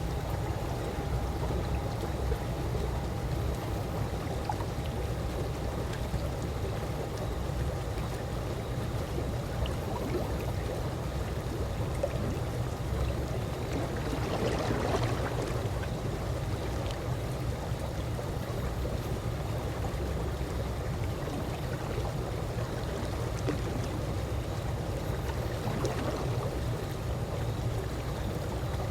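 Calm swimming-pool water making a steady, even wash of water noise, with one brief louder swell about halfway through.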